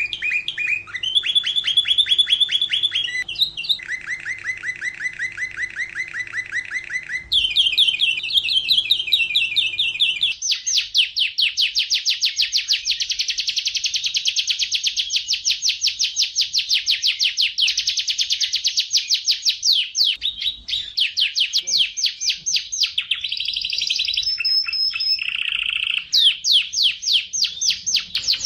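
Domestic canary singing a long unbroken song of rapid trills, each a fast run of repeated notes, switching to a new pitch and pattern every few seconds.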